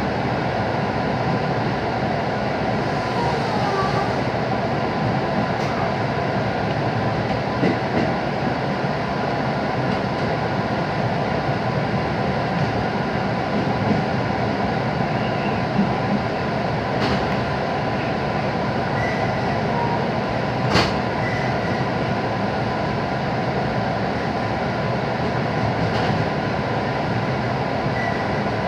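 Cabin noise inside a JR West 221-series electric train running at reduced speed under a typhoon speed restriction: a steady rumble of wheels on rail, with a faint steady tone and a few sharp clicks, the clearest about three-quarters of the way through.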